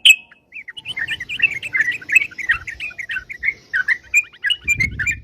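Yellow-vented bulbul (crucukan) singing energetically: a dense, rapid run of short chirping notes that starts after a brief pause about a second in. A brief low rumble comes near the end.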